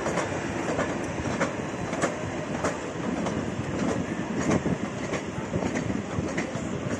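Small sightseeing train running on its track: a steady rolling rumble with a sharp wheel click roughly every half second or so as the wheels cross the rail joints.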